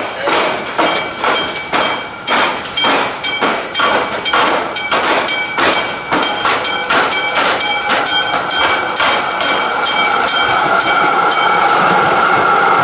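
Electric train passing over a rail crossing, its wheels clacking over the gaps in the rails in a quick, uneven series with a ringing metallic tone. The clacks stop near the end, leaving a steady whirring.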